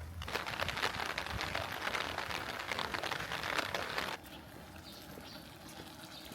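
Heavy rain falling, a dense crackling patter of many drops, which drops suddenly to a lighter, quieter patter about four seconds in.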